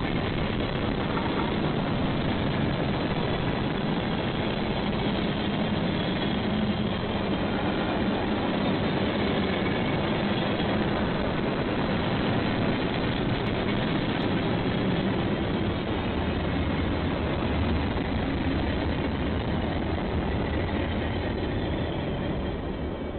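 Diesel freight train running past: a steady, heavy engine rumble that starts to fade near the end.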